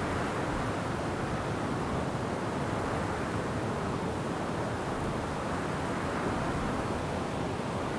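Wind rushing steadily through forest trees, a continuous even noise with no distinct events.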